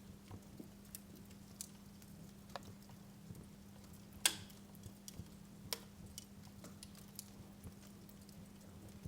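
Wood fire in a fireplace crackling, with irregular sharp pops, the loudest a little past four seconds in and another near six seconds. A faint steady hum sits underneath.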